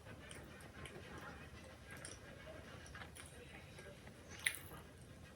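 Faint scattered small clicks and taps, with one sharper click about four and a half seconds in.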